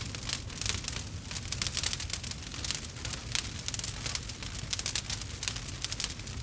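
Wood campfire crackling, with many quick irregular pops over a steady low rumble.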